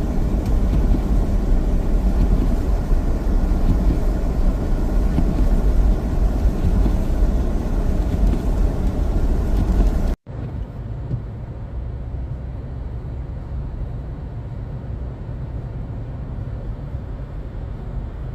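Steady low rumble of a vehicle on the move, road and engine noise. About ten seconds in it cuts abruptly to a quieter, duller steady hum.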